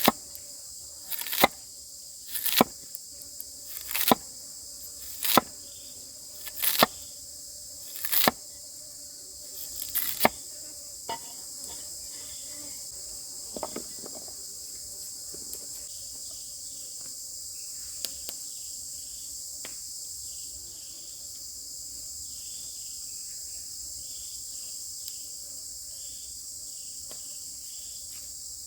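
Steady high-pitched chorus of crickets or cicadas. Over it, about eight sharp knocks at an even pace of roughly one every 1.4 seconds in the first ten seconds, then stop.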